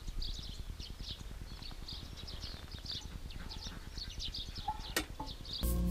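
Small songbirds chirping repeatedly in short high calls over a low rumble, with a single sharp click about five seconds in.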